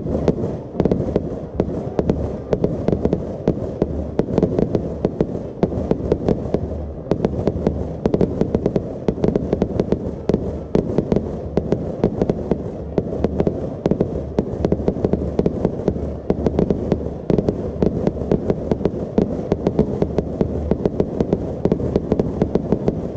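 A fireworks display barrage: aerial shells and firecrackers going off in rapid succession, many overlapping bangs a second with no break.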